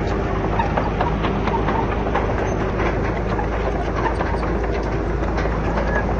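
Heavy diesel earthmoving machinery running steadily, with a continuous clatter of small clicks and knocks over the engine.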